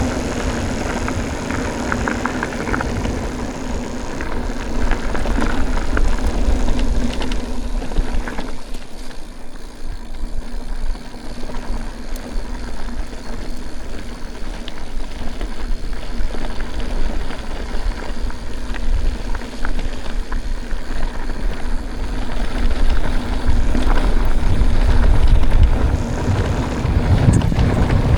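Mountain bike ridden over a dirt track: tyre and frame rumble with wind on the microphone, and a steady hum through the first eight seconds or so.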